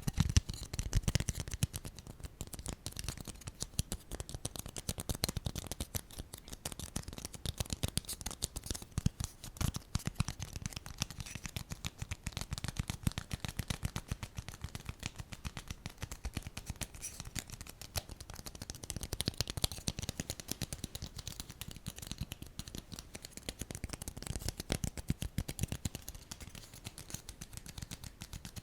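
Close-miked ASMR triggers: a fast, continuous stream of small clicks and taps from fingers or objects, with occasional soft low thumps.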